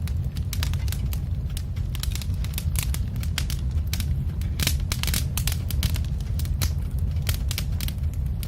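Wood fire crackling: many irregular sharp pops and snaps over a steady low rumble of flames.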